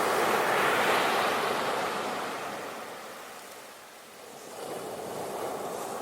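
Sea waves breaking on the shore: a wash of surf that fades away over the first few seconds, then the next wave comes in about four and a half seconds in.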